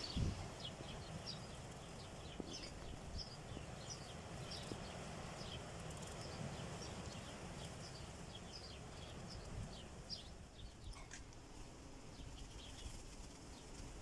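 Small birds chirping in quick, short calls, several a second, over a faint low rumble.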